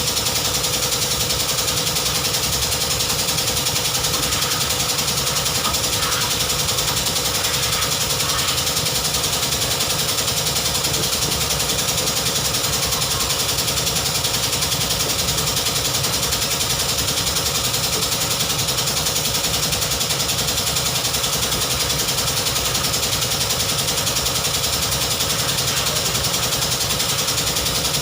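BMW 320i engine idling steadily, with a fast, even pulsing.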